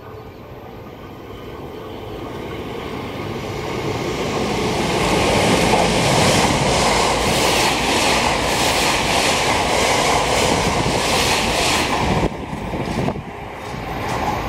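JR West 683 series 4000-subseries electric limited express train approaching and passing at speed. The sound grows over about five seconds, goes on with a regular clatter as the cars go by, and drops off suddenly about twelve seconds in as the last car clears.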